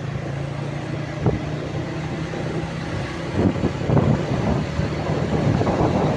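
Truck engine running steadily with a low hum; about halfway through it gets louder and rougher, with irregular thumps and rumble.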